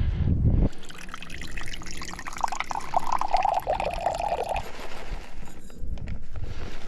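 Water poured into a cooking pot for a few seconds, splashing with a shifting tone, stopping about four and a half seconds in.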